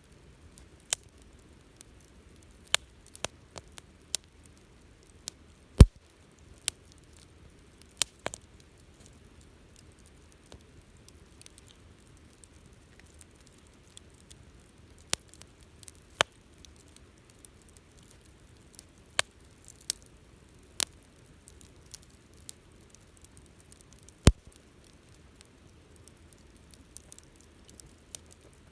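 Wood campfire crackling: sharp, irregularly spaced pops and snaps over a faint low hiss, with two much louder cracks, one about six seconds in and one later on.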